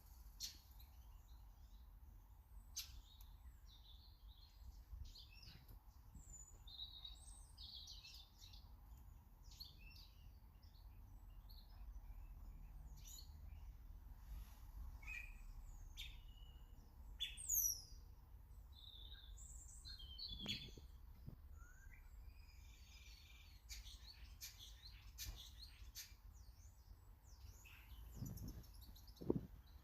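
Small garden birds chirping and calling, many short high chirps throughout, with one louder sweeping call about halfway through. A few low thumps come in the second half.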